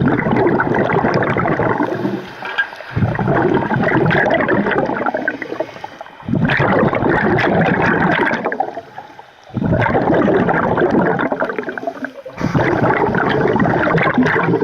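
Scuba diver's exhaled bubbles gurgling out of the regulator underwater, in bursts of two to three seconds that come about every three seconds with the breathing, with short quiet gaps between them for the in-breaths.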